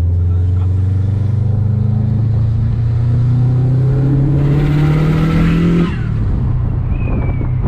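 Subaru STI turbocharged flat-four engine revved under throttle, its pitch climbing steadily for about six seconds. A rushing hiss joins near the top. Then the revs drop suddenly back to idle.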